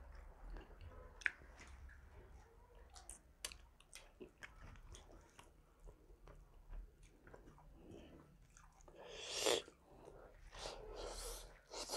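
Close-up mouth sounds of a man eating rice pulao by hand: soft chewing with small scattered clicks, and two louder rushing noises near the end.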